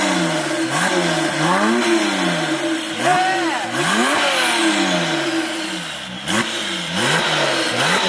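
Porsche 997 Turbo's twin-turbo flat-six running through a custom turbo-back exhaust under acceleration, the revs climbing and dropping back several times in a row.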